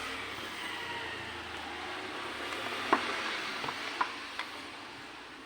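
Handling noise as a multimeter is shifted into place on a workbench: a soft, hissing scrape that slowly fades, with two small clicks about three and four seconds in.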